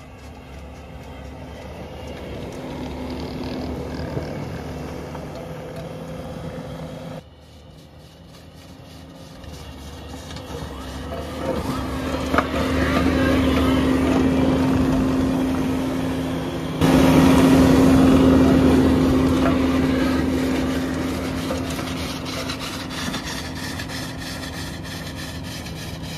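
Skid-steer loader running a hydraulic forestry mulcher attachment: a steady engine and rotor drone that swells louder toward the middle and then fades, with abrupt changes about seven and seventeen seconds in.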